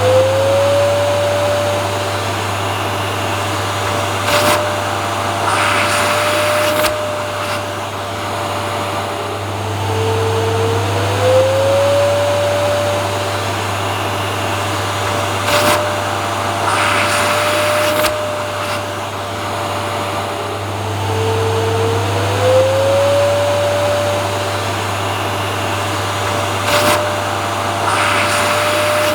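Vacuum cleaner running continuously with a steady deep hum under its rushing noise. The motor whine slides up in pitch and then holds, and this repeats about every eleven seconds, with short surges of louder hiss in between.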